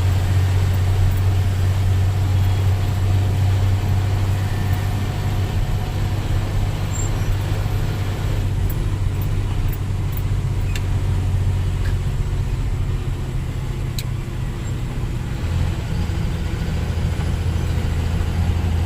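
Engine of a moving road vehicle running steadily, a continuous low drone with road noise and a few light clicks.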